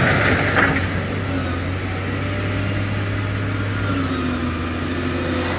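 Heavy diesel engine of earthmoving machinery running steadily under load, with a low, even drone. A burst of hiss at the start and a short knock about half a second in.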